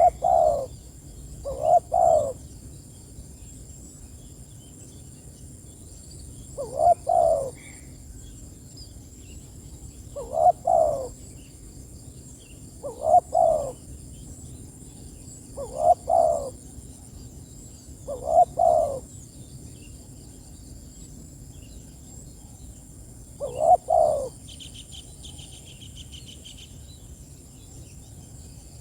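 Spotted dove (tekukur) cooing: eight short two-part coo phrases a few seconds apart, over a faint steady high hiss.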